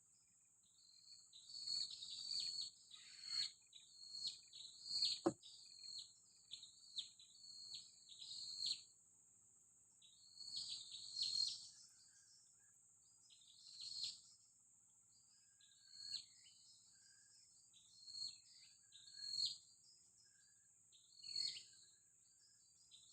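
A bird calling again and again in short, high, downward-sweeping notes, rapid at first and then spaced about every two seconds, over a steady high-pitched insect drone. A single sharp knock comes about five seconds in.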